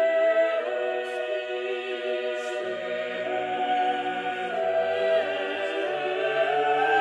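Background music of choral singing: slow, held chords that change every second or two.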